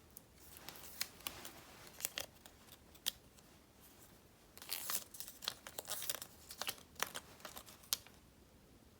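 Sticker sheets and paper being handled close up: crackly peeling and crinkling with a few sharp clicks, thickest about five to six and a half seconds in.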